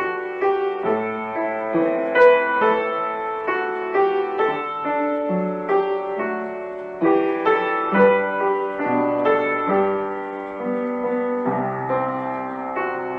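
Background piano music: a gentle, slow melody with chords, played note by note.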